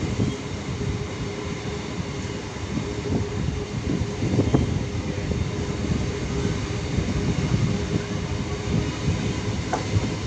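Kolkata suburban electric local train running along the track: a steady rumble of wheels on rails with a faint steady hum and scattered knocks.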